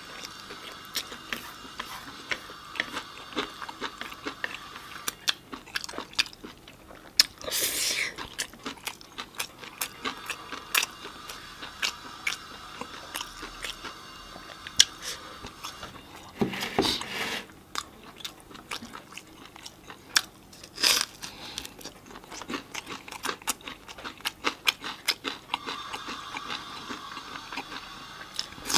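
Close-up mouth sounds of a person eating stir-fried noodles: steady chewing with many small wet clicks and crunches, broken by three louder, noisier mouth sounds about a quarter of the way in, a little past halfway and about two thirds through.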